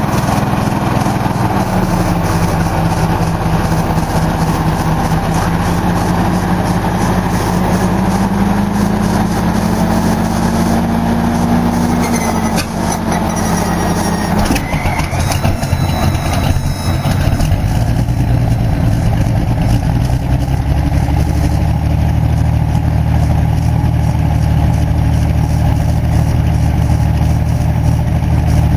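Supercharged Allison V-1710 V12 aircraft engine in a hot rod running. Its note climbs gradually about a third of the way in, drops back about halfway through, then settles into a steady run.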